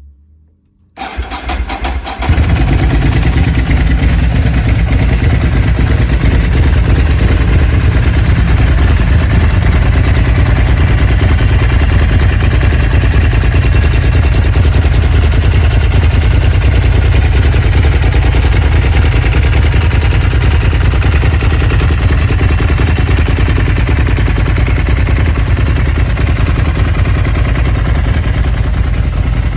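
Ducati 999's L-twin engine cranked by its electric starter for about a second, catching, then running loudly and steadily.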